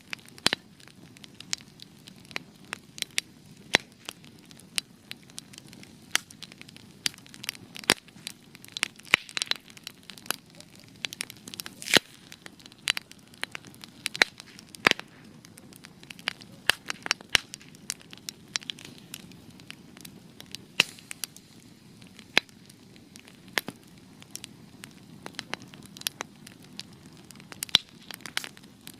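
Wood fire burning, with irregular sharp crackles and pops over a low, soft rush of flame.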